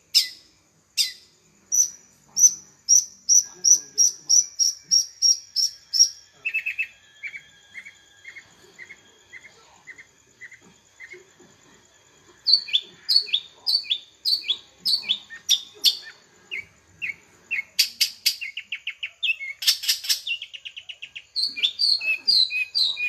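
Long-tailed shrike (cendet) singing a long, varied song of sharp repeated notes, about two to three a second, switching from phrase to phrase: high falling notes first, then a run of lower notes, then high notes again, with a couple of loud harsh calls near the end.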